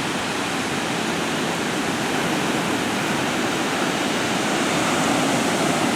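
Ocean surf: a steady wash of waves breaking on the beach, swelling slightly toward the end.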